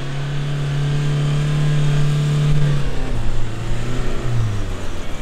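Four-wheel-drive engine running at high revs under load on a soft sand track. About three seconds in the revs ease off and its pitch falls.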